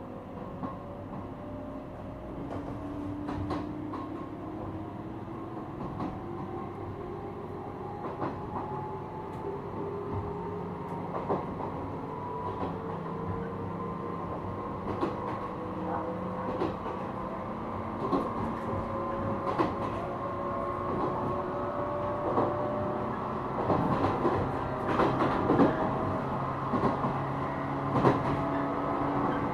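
JR East 455-series electric train motor car (MoHa 455) running, its MT54 traction motors and gearing whining in a steadily rising pitch as the train gathers speed. The wheels clack over rail joints, and the clacks come closer together near the end.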